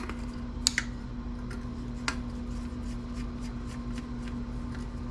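Small sharp clicks and light scraping of a hand tool working a motherboard's heat sink loose, over a steady low hum.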